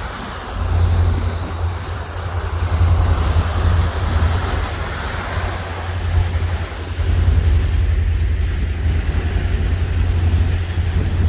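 Wind buffeting the microphone on the deck of a boat under way, a heavy low rumble that surges and eases, over the steady rush of the boat's engine and the water alongside.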